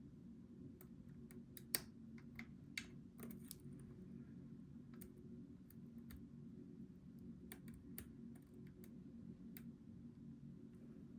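Scattered small metallic clicks and ticks of a lock pick working the pins of a Goal V18 pin tumbler lock, with two sharper clicks about two and three seconds in, over a steady low hum.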